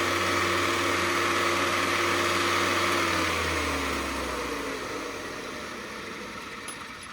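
Valve grinding machine's electric motor running steadily, then switched off about three seconds in and winding down, its hum falling in pitch and fading as the spindle coasts to a stop after a valve face has been ground.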